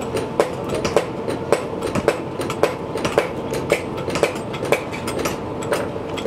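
A machine running steadily, with a constant hum and a sharp regular click about twice a second.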